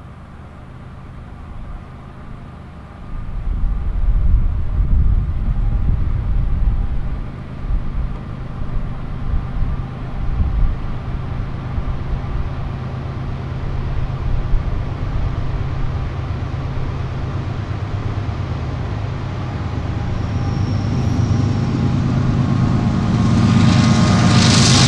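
Diesel locomotives of a freight train running with a steady engine drone and low rumble, growing louder near the end as the train draws closer.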